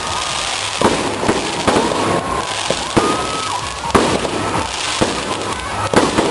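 A fireworks display: a run of sharp bangs of aerial shells bursting over continuous crackling, the loudest bangs about four and six seconds in, with crowd voices underneath.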